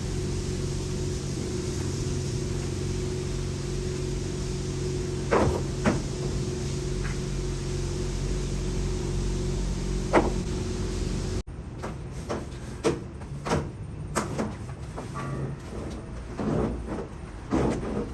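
An engine running steadily, with a few sharp knocks over it. About two-thirds of the way through, the sound cuts off abruptly, and a quieter run of clanks and knocks follows.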